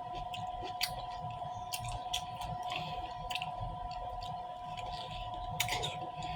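A person chewing food close to the microphone, with irregular wet mouth clicks and smacks, over a steady faint two-note hum.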